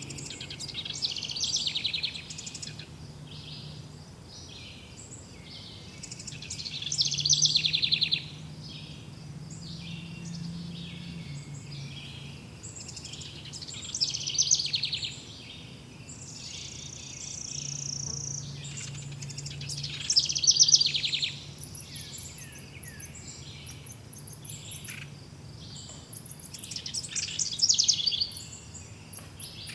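Forest birdsong: birds singing short trilled and whistled phrases every few seconds. Rapid, very high chirping runs through the last third, and a faint low hum comes and goes underneath.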